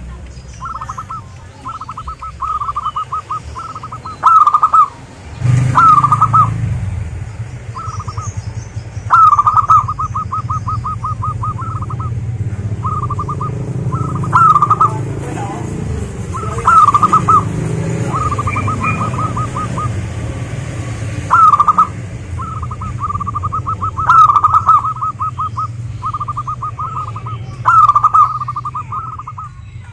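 Zebra doves cooing: phrase after phrase of rapid staccato coos, each a few seconds long and often led by a louder first note. A low rumble runs underneath from about five seconds in.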